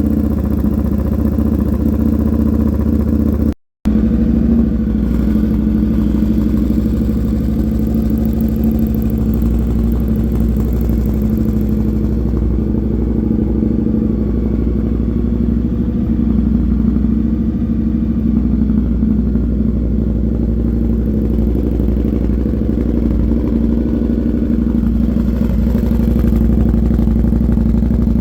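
Indian FTR 1200's V-twin engine idling steadily through an aftermarket Toce exhaust, freshly started on a Lloydz tune. The sound cuts out for a moment about four seconds in, then carries on unchanged.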